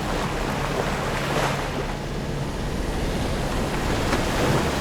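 Strong wind and water rushing along a sailboat's hull, with the steady low drone of the boat's diesel engine underneath.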